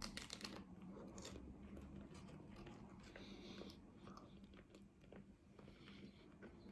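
Faint chewing and biting into a crunchy taco shell close to the microphone, with a cluster of small crunches in the first half second and scattered ones after, over a faint steady hum.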